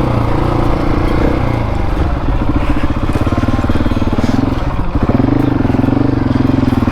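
Husqvarna 701 Enduro's single-cylinder four-stroke engine running at low, fairly steady revs. The note dips briefly about five seconds in.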